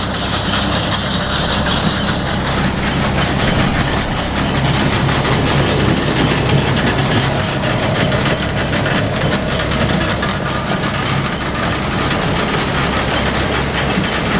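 Tractor engine running steadily while driving a Claas Rollant 62 round baler, with a fast continuous mechanical clatter from the machinery over the engine note.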